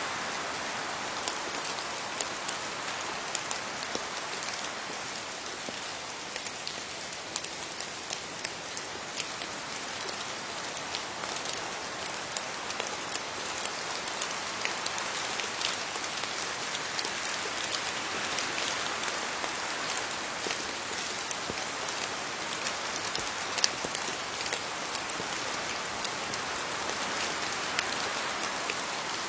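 Steady rain falling on leaves, an even patter with many separate drops ticking, one a little louder near the end.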